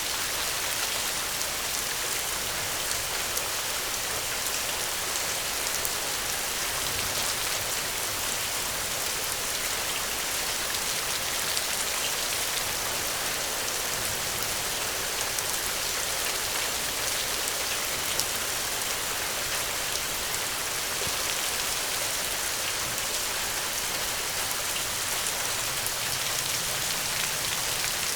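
Steady rainfall, an even hiss of rain with many small drops pattering on a surface.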